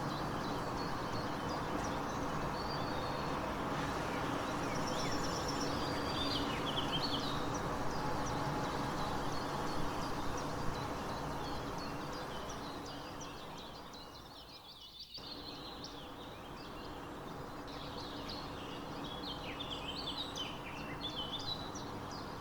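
Outdoor ambience of small birds chirping and singing in short scattered phrases over a steady background hiss. The whole bed fades down about two-thirds of the way through, then comes back up with more chirping.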